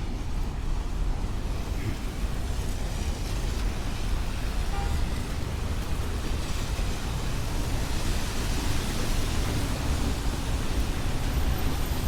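Street traffic on a wet road: a steady low rumble of vehicles, with tyre hiss swelling about halfway through as a car passes.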